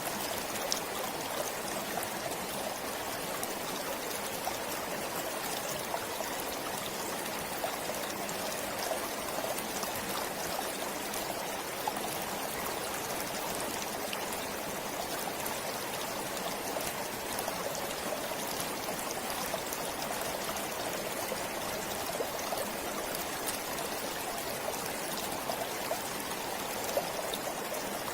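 Forest stream flowing steadily, an even rush of water with small splashes and drips here and there.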